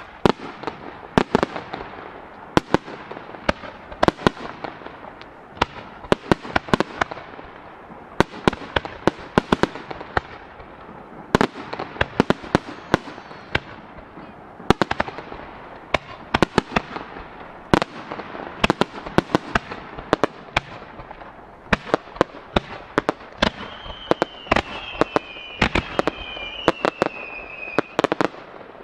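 Fireworks display: a dense, irregular run of sharp shell bursts and bangs, several a second, over continuous crackling. Near the end, a couple of high whistles slide down in pitch.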